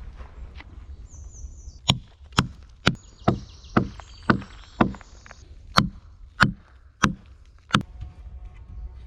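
Axe chopping into wood: about a dozen sharp strikes, roughly two a second, with a brief pause midway.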